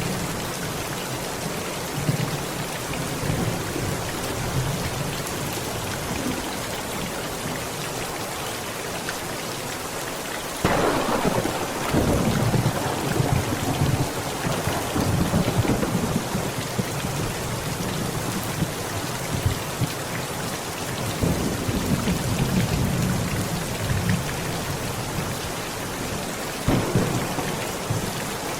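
Heavy rain pouring steadily on a tent, with thunder: a sudden clap about a third of the way in that rumbles on for several seconds, then two more rolls of thunder later on.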